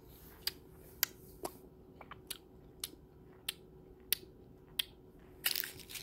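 Someone crunching small, hard, Nerds-like candy pellets in the mouth: a string of sharp, irregular crunches about every half second. Near the end comes a short burst of rustling.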